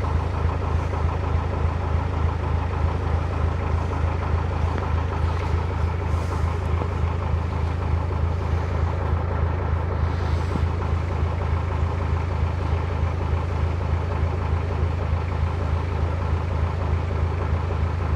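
Narrowboat's engine running steadily at low revs with an even, fast beat.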